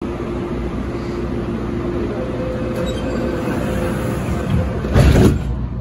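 An MTR Tung Chung line A-train pulling away from a station, heard from inside the carriage: a steady running rumble with a steady motor whine. A brief, loud burst of noise comes about five seconds in.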